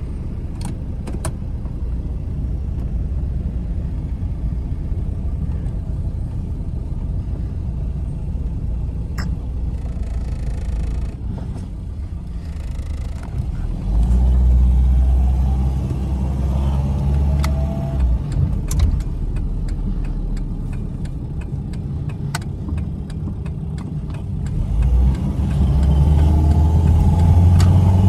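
Dodge Neon Sport Coupé's four-cylinder engine heard from inside the cabin, running at low speed and then pulling harder, louder with rising pitch, about halfway through and again near the end. A few sharp clicks are heard along the way.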